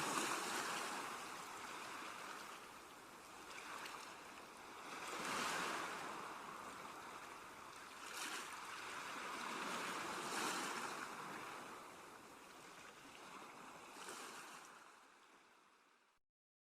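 Sea waves washing ashore, a hiss that swells and ebbs every few seconds, fading out to silence near the end.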